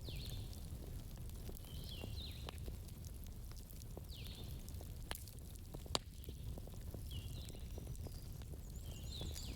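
Wood campfire crackling and popping over a low steady rumble, with one sharper pop about six seconds in. Short high chirping calls come every couple of seconds in the background.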